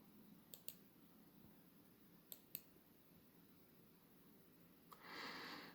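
Near silence with quiet room tone, broken by two pairs of light clicks, about half a second and two and a half seconds in, then a short rush of noise near the end.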